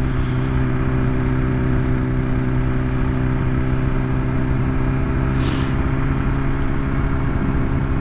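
BMW S1000RR's inline-four engine on its stock exhaust, running at a steady pitch as the bike cruises, with wind rumble on the microphone. A brief hiss about five and a half seconds in.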